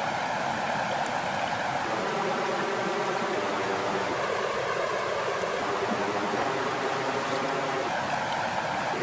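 Water flowing steadily with a constant rushing sound, like a stream; its texture shifts between about two and eight seconds in.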